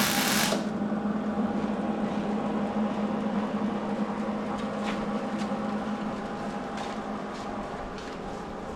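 A loud hiss cuts off about half a second in, leaving a steady mechanical hum from shop equipment, with a few light ticks, that slowly fades.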